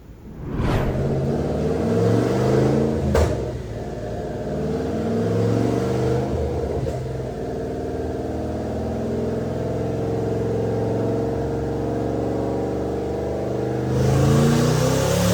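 Twin-turbocharged 2014 Mustang GT's 5.0 Coyote V8 running, its note rising and falling with the revs, with a sharp crack about three seconds in. Near the end it gets louder and climbs in pitch with a rising hiss.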